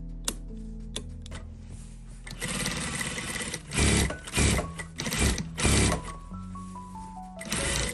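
Sewing machine stitching in several short runs of about a second each, starting a couple of seconds in, over background music.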